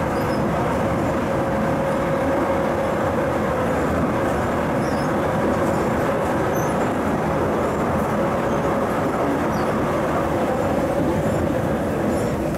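MTR East Rail MLR (Metro-Cammell) electric multiple unit running along the line, heard from on board: a steady, even rumble of the train and track, with a faint steady whine that fades and returns.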